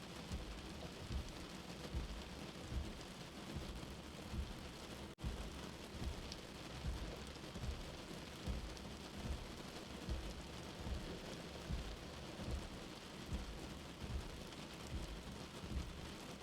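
Steady rain as heard from under shelter, mixed with a soft, low heartbeat thumping about once every 0.8 seconds. There is a brief dropout in the sound about five seconds in.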